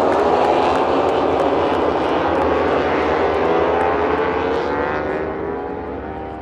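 MotoGP racing motorcycle engines at high revs, with a few sharp pops early on. The pitch slowly rises as the sound fades away toward the end.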